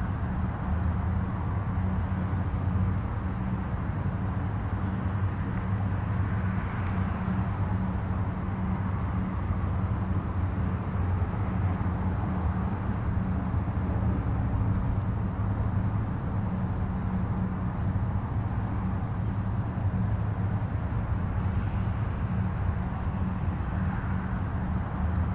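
Distant highway traffic: a steady low rumble of tyres and engines, with a gentle swell a few times as a vehicle passes nearer.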